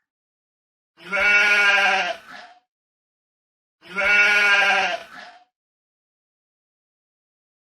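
Sheep bleat sound effect played twice, the same drawn-out, wavering call each time, about three seconds apart.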